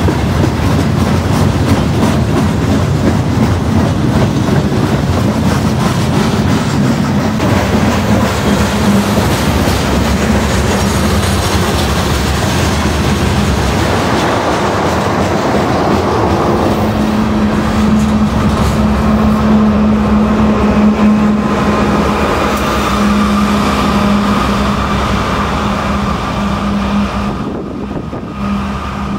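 Freight cars of a manifest train rolling past close by, their wheels clacking steadily over the rail joints. About halfway through, a steady low hum joins the rattle.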